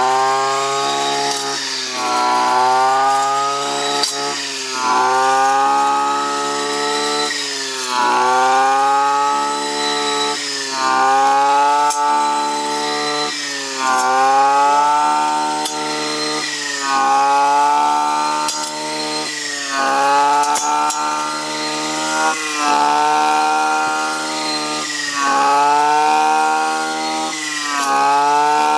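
Chainsaw engine running at high revs while cutting wood. Its pitch sags under load and climbs back about every two seconds, as the chain bites into the wood and frees again.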